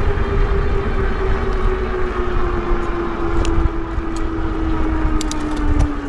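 Wind rumbling on the microphone, with a steady motor hum that slowly drops in pitch, and a few light clicks.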